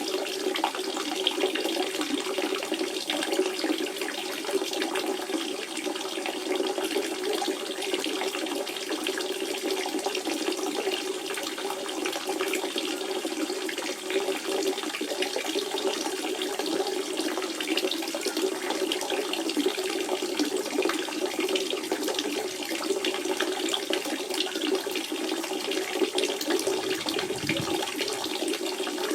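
Running water from a natural spring, flowing steadily without a break.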